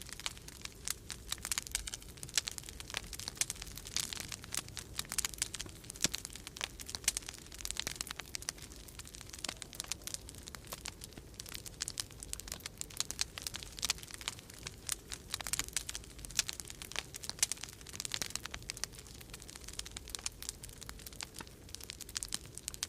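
Wood fire crackling in a fireplace: a dense, irregular run of sharp pops and snaps, with a faint steady low rumble underneath.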